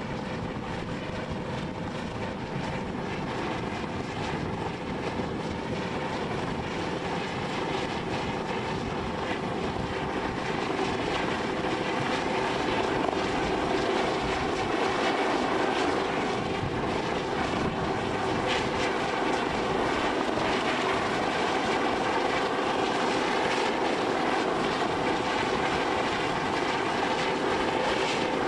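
Aircraft engine running steadily with a constant whine, growing a little louder about ten seconds in.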